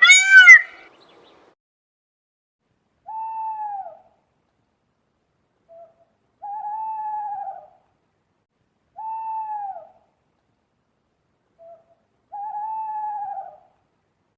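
An owl hooting: four single hoots about three seconds apart, each under a second long, with a faint short note between some of them. The first second holds the end of a louder, fast run of repeated calls that cuts off.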